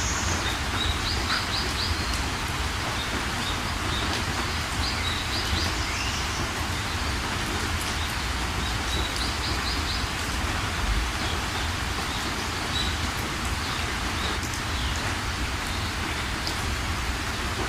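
Steady rain hiss with birds chirping over it: short, quick trills of high chirps about a second in, at about five seconds and again at about nine seconds.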